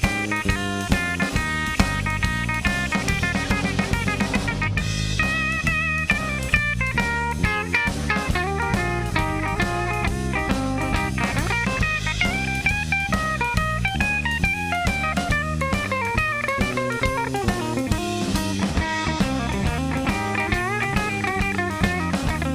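Blues trio playing an instrumental break: lead guitar soloing with bent, sliding notes over bass guitar and a steady drum-kit beat.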